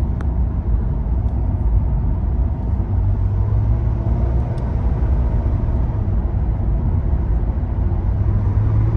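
Ford Falcon BF XR6's inline-six engine and tyre rumble heard from inside the cabin while cruising at a steady speed, running smoothly.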